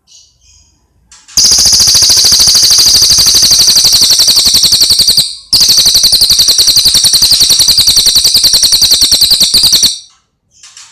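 A songbird giving two long, very loud, rapid rattling trills with a short break between them, the pulses coming about twenty a second, followed by softer chirps near the end.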